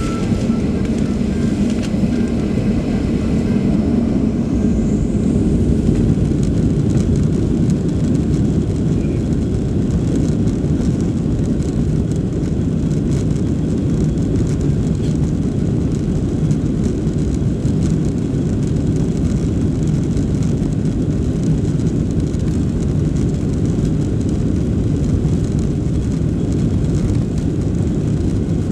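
Boeing 737 Next Generation jet engines heard from inside the passenger cabin: a loud, steady rushing rumble, with a low hum in the first few seconds that fades out about four seconds in.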